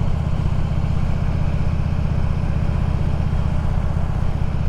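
Motorcycle engine running at a steady speed: a low, even rumble with a steady hiss above it, with no revving or change in pitch.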